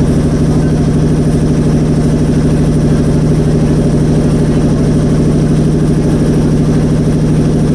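Motorboat engine running steadily at an even speed, heard from on board the boat.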